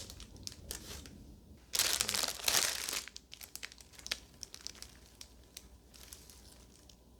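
Flower bouquet wrapping crinkling and rustling as it is handled, with a loud spell of crinkling about two seconds in that lasts around a second, then lighter crackles.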